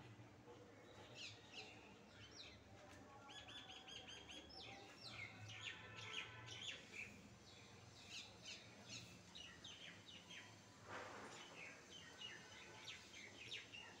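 Faint bird chirps: many short, high chirps, with a quick run of repeated notes about three seconds in. A short rustle about eleven seconds in.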